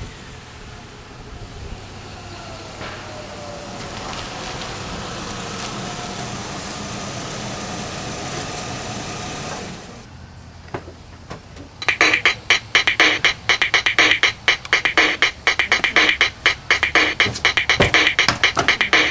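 A car's steady running and road noise, growing slowly louder, stops about ten seconds in. About two seconds later, upbeat electronic music with a fast, steady beat starts.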